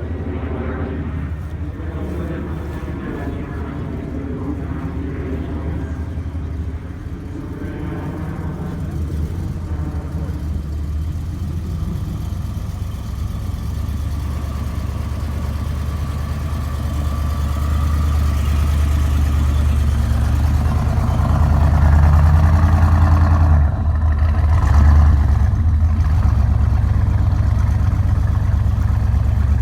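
Car engine running steadily with a low rumble, growing louder a little past the middle and loudest near the end.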